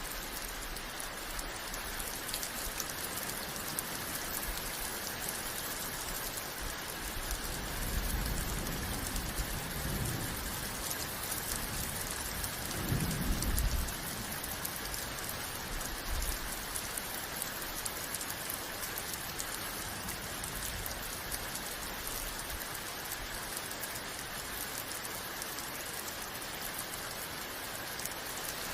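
Steady rain falling on a surface, an even hiss of drops. Two brief low rumbles rise out of it, one about eight seconds in and a stronger one about thirteen seconds in.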